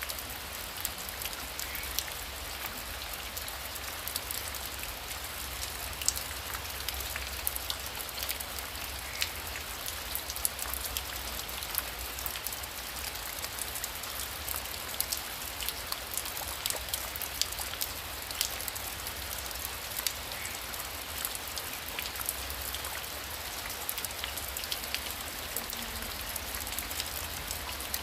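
Heavy rain falling steadily, with many individual drops striking a surface in sharp, irregular ticks.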